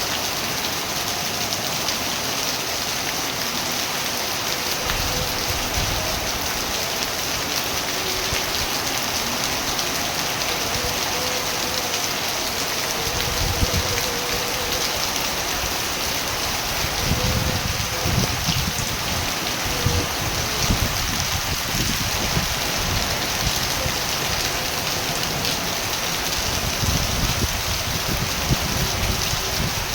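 Steady rain falling, a constant even hiss, with low rumbles swelling up under it several times.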